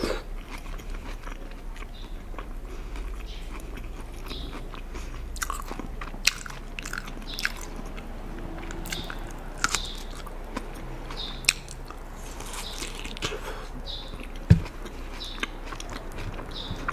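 Close-miked chewing of salad with tomato slices: wet, crisp bites and mouth sounds with scattered sharp clicks, and one louder knock a couple of seconds before the end.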